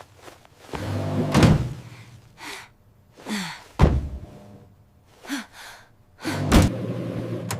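Several separate thumps, with the sharpest about four seconds in and short gliding sounds between them.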